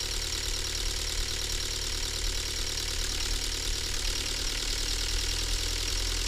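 Toyota HiAce diesel engine idling steadily.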